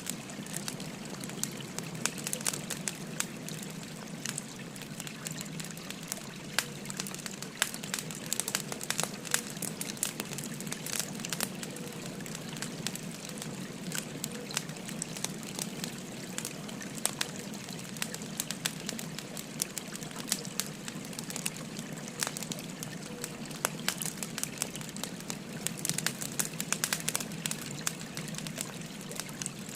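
Wood fire crackling, with frequent sharp irregular pops, over the steady babble of a flowing stream.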